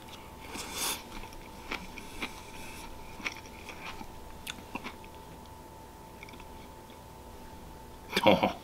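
A person chewing a mouthful of food, with small wet mouth clicks and a few faint fork clicks, over a faint steady hum. A man's voice starts near the end.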